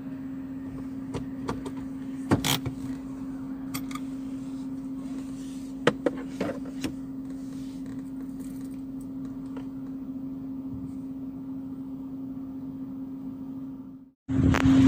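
Steady hum of a car running, heard from inside, with a few scattered clicks and knocks in the first half; the sound drops out briefly near the end.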